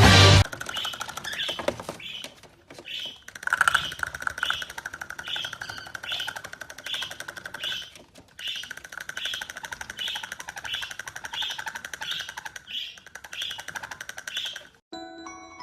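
A parrot giving a short chirping call over and over, roughly one and a half to two calls a second, with two brief pauses.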